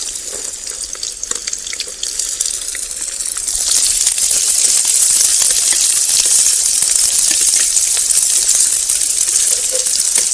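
Onions frying in hot oil, sizzling densely with fine crackles. The sizzle grows louder about a third of the way in and then holds steady.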